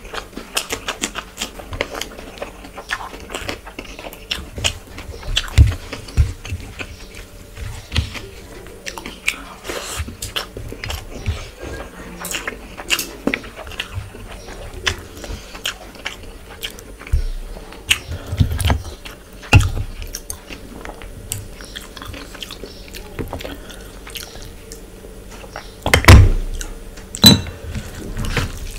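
Close-miked chewing and lip smacking of hand-eaten mouthfuls of rice with spinach and mutton curry, full of small wet clicks. A few dull thumps stand out, the loudest near the end.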